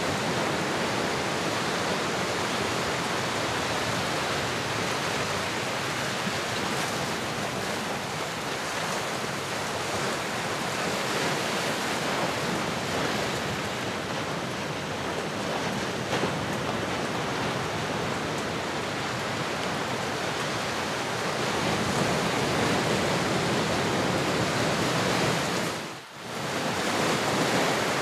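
Recorded ocean surf: a steady wash of breaking waves that swells and eases gently. Near the end it drops away for a moment and comes straight back.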